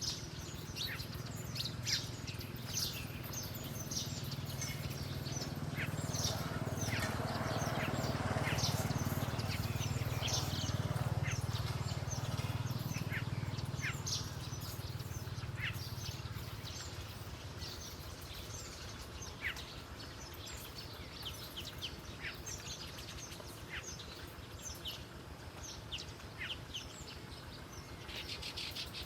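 Small birds chirping: many short, sharp high notes, scattered and overlapping. A low rumble swells and fades in the middle.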